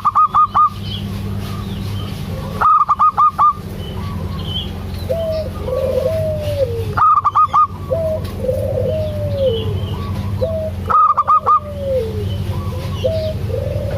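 Zebra dove (perkutut) calling: a loud burst of four or five quick clipped notes about every four seconds, with softer rising-and-falling coos in between.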